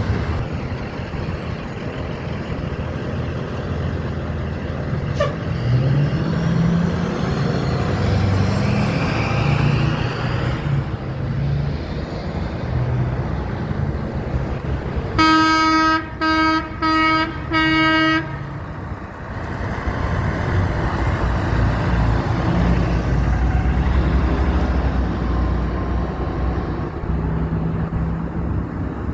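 Trucks driving past with their engines running, and a truck horn sounding four short blasts about fifteen seconds in, each on one steady note.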